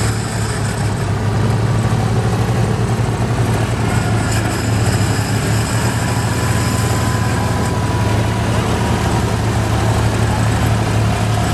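Garden tractor engine running loud and steady, holding an even pitch.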